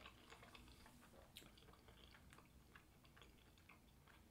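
Faint chewing of a mouthful of soft mac and cheese, with small scattered mouth clicks.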